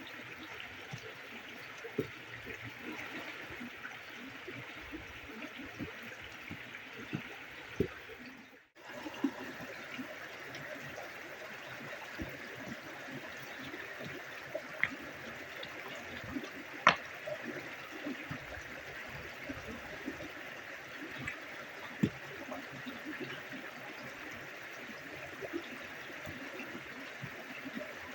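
Steady running-water noise with scattered small clicks and knocks over it; the sound drops out briefly about nine seconds in.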